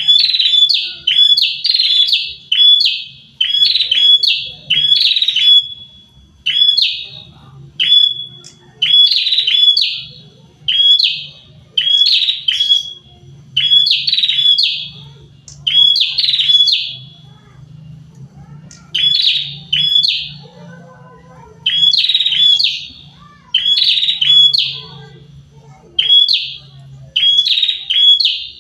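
A pair of prinias calling in lively song: loud, sharp chirping phrases repeated about once a second, with a short lull midway before the calls pick up again.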